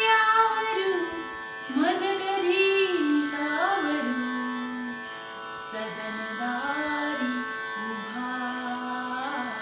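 A woman singing a gliding, wordless melodic line over a steady drone accompaniment, louder at first and settling on held notes towards the end.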